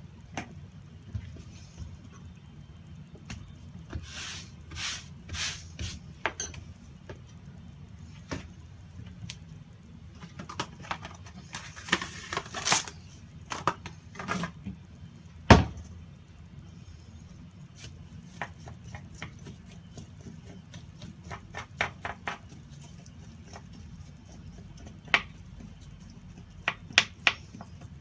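Knife work on a cutting board while a bluefin tuna is broken down: scattered clicks and taps and short scraping strokes, with one sharp knock about halfway through, over a low steady hum.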